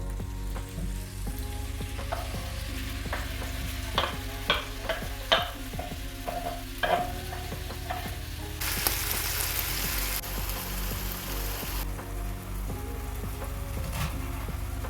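Food sizzling in a frying pan as it is stirred, with a run of sharp utensil clicks against the pan a few seconds in. The sizzle grows louder and brighter for a few seconds around the middle.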